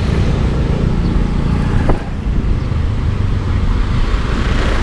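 Yamaha Aerox 155 scooter's single-cylinder engine running on the move under a steady low rumble of wind and road noise, with a single sharp click about two seconds in.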